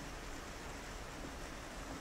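Steady rain falling on a window, an even hiss with no separate drops or thunder standing out.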